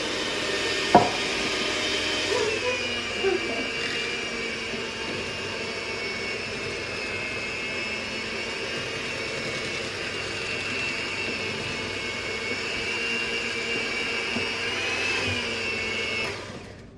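Electric stand mixer motor running steadily with a whine while mixing cookie dough, with a click about a second in. It shuts off suddenly near the end.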